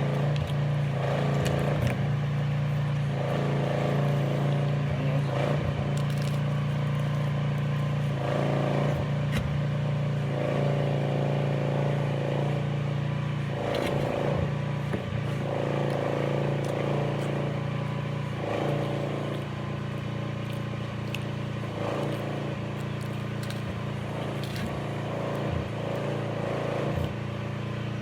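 A steady low hum with intermittent rustling and scraping of plastic MRE packaging, as when crackers are crushed and food is handled in its pouch.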